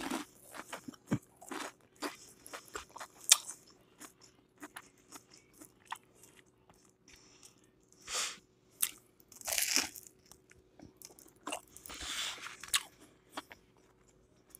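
Close-up mouth sounds of a person eating fried hush puppies: crunchy bites and wet chewing, with scattered small clicks and a few louder crunches about eight, ten and twelve seconds in.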